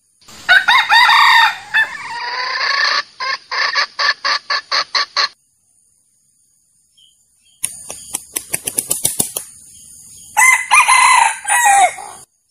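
Male junglefowl crowing twice in short, clipped crows. After the first crow comes a rising cackle and a quick run of about ten clucks; another rapid run of clucks comes just before the second crow.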